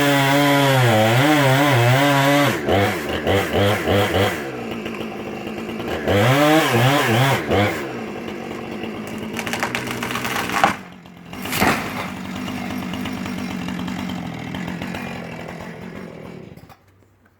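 Chainsaw running and being revved, its pitch dipping and rising as it works, then settling to a steadier, quieter run with two sharp knocks about halfway through. The saw dies away near the end.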